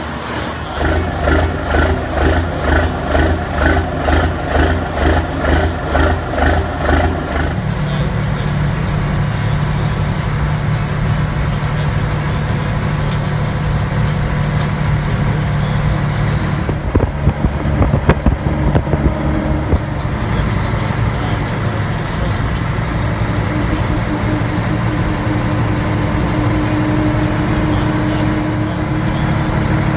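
1980 Mack R-model heavy diesel truck running, with a pulsing sound about twice a second for the first seven seconds, then a steady engine drone. A few sharp knocks come about 17 to 19 seconds in.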